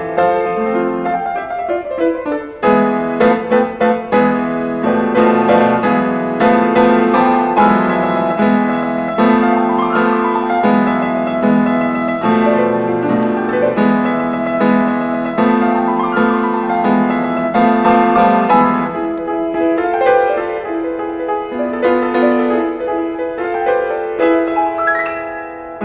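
Piano playing a Spanish-flavoured student piece, with steadily repeated low chords under a moving melody.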